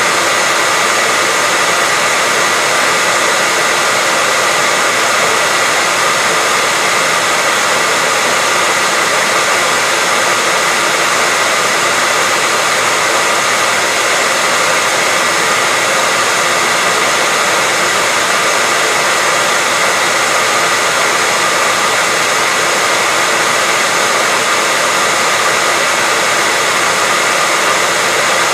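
Hair dryer running continuously at an unchanging speed: a steady, even whoosh of blown air with a faint high motor whine, used as white noise for baby sleep.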